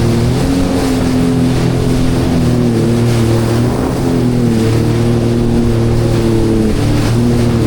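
Jet ski engine running under way at steady speed, its pitch shifting a little with the throttle and dipping briefly near the end, with wind and water rushing past.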